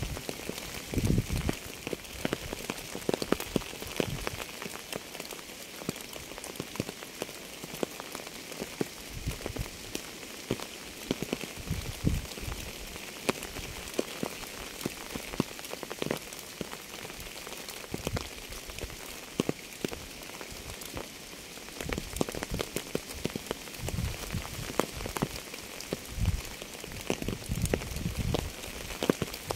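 Steady rain with many close drop ticks. Heavier dull thuds come and go, more of them near the start and the end.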